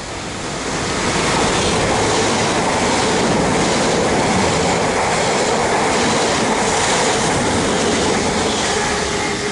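Elizabeth line Class 345 electric train passing at speed without stopping: a steady rush of wheel and rail noise that builds over the first second and eases slightly near the end.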